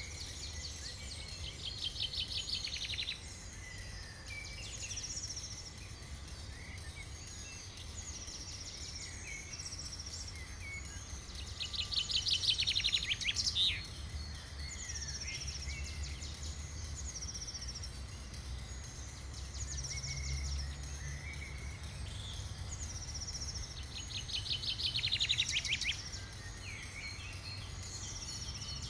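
Small birds chirping in open scrubland, their short high calls repeating every second or so, with three louder fast trilling songs of about two seconds each: one near the start, one about twelve seconds in and one near the end. A low steady rumble runs underneath.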